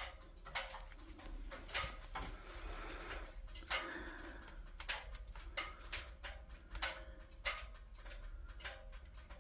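Firewood burning in a wood stove, crackling with irregular sharp pops.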